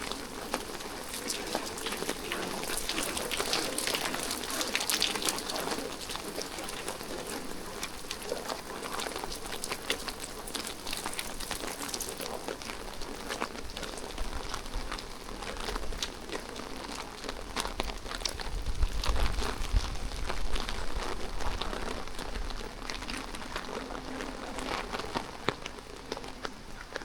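Steady rain falling on hard surfaces, an even hiss dotted with many small drop ticks. A low rumble swells for a few seconds past the middle.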